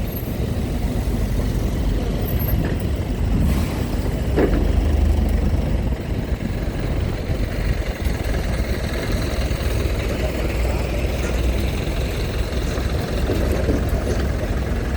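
Truck and car engines running slowly and idling as vehicles board a ferry, a steady low rumble.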